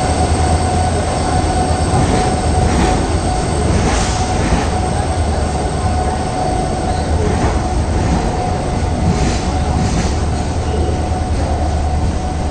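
Passenger train coaches rolling slowly past as the train pulls in, with a steady high-pitched squeal over the wheel rumble and scattered clicks as the wheels cross rail joints.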